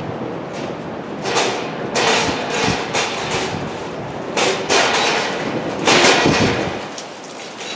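Freight train cars moving slowly during a switching move, with clanks and thuds from the wheels and couplers in several louder surges. Strong wind buffets the microphone.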